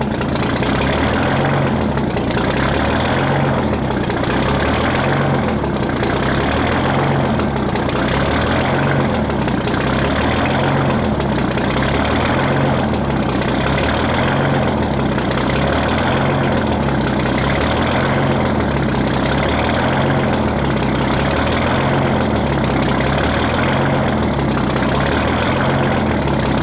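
Detroit Diesel 6-71N two-stroke inline-six diesel idling steadily just after a cold start without ether, still warming up. Its sound swells in a slow, even pulse about once a second.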